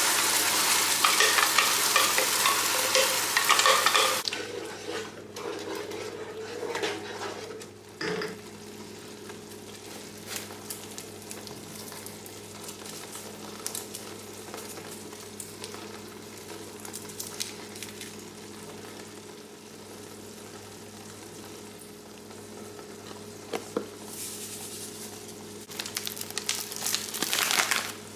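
Food sizzling in a frying pan, loud for the first four seconds, then quieter with scattered light clicks and scrapes of a utensil, and loud again near the end. A steady low hum runs underneath.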